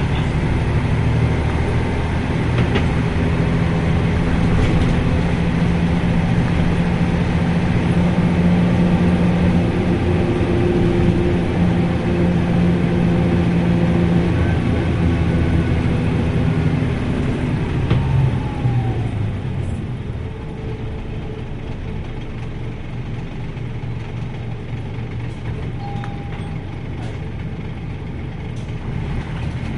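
Diesel engine of a 1994 Nissan Diesel U-UA440LSN city bus running under load with a steady drone. About two-thirds of the way through the engine note falls away and it runs quieter, as the bus eases off.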